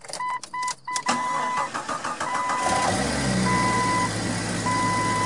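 Jeep Cherokee XJ's 4.0 L inline-six cranking on the starter about a second in and catching near three seconds, then settling into a steady idle: its first start on new four-hole fuel injectors, with the engine computer still relearning them. A dashboard warning chime beeps quickly at first, then about once a second over the engine.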